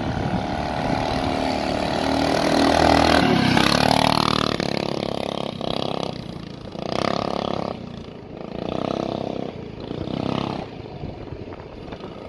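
Mini bike engine running and revving. The pitch rises about three seconds in, then comes a series of throttle blips every second or two that grow weaker toward the end.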